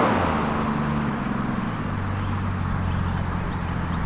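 Car engine running steadily at low revs with a low, even rumble.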